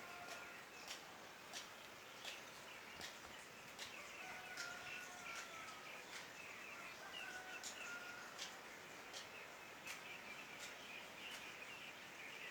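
Faint outdoor night ambience: a dense high chirring of small animals, sharp clicks repeating about every three-quarters of a second, and a few short whistled calls in the middle.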